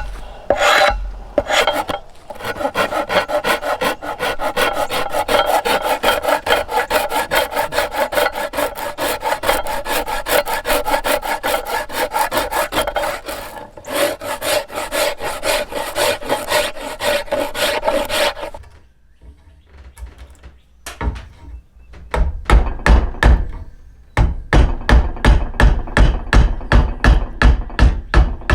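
Hand rasp or file scraping a yew bow stave in fast, rhythmic strokes. About two-thirds of the way through the strokes stop briefly. They then resume heavier and slower, about three a second, each with a dull thump.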